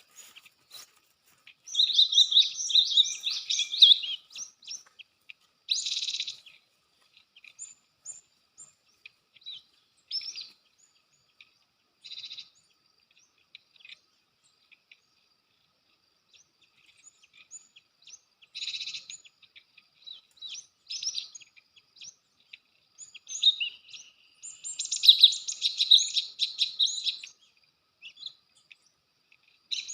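Cinereous tits (gelatik batu) calling in bursts of quick, high chirps, with several-second pauses between bursts. The longest bursts come a couple of seconds in and again near the end.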